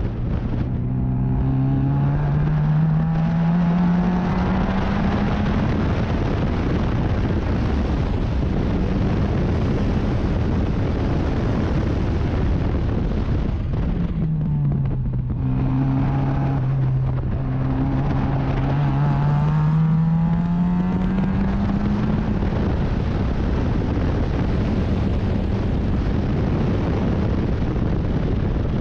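Racing car engine at full racing speed, its revs climbing, dropping briefly about halfway through, then climbing again, over a steady rushing noise.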